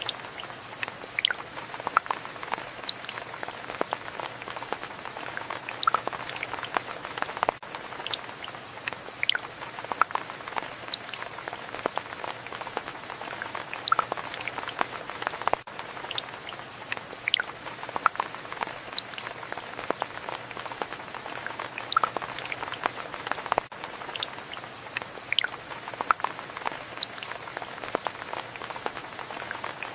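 Rain falling, heard as a steady hiss with many separate drops ticking and pattering onto a surface. The same short stretch of rain repeats about every eight seconds.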